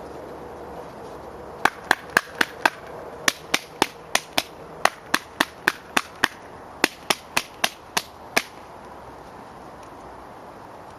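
A rapid series of sharp taps, about four a second, in four short runs of five or six with brief pauses between.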